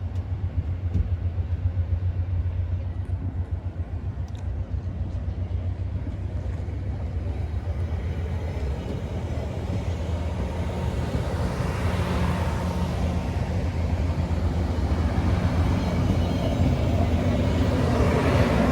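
Diesel-hauled train running by close to the platform: a steady low engine drone, with wheel and rail noise building from about halfway through and getting louder toward the end.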